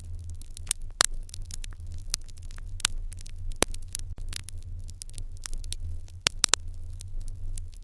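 Open fire in an irori hearth crackling, with irregular sharp pops, a few louder than the rest, over a steady low rumble.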